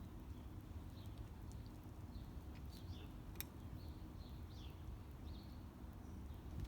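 Faint, scattered chirps of small birds over a steady low outdoor rumble, with a single sharp click about halfway through.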